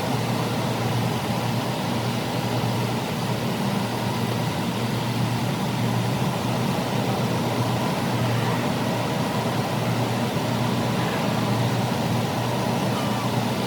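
A steady, unchanging mechanical hum, low-pitched, with nothing starting or stopping.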